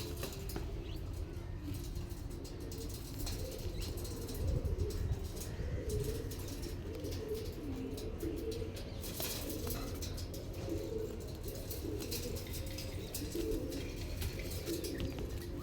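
Domestic pigeons cooing over and over in low, rolling calls, with a few brief bursts of wing flapping.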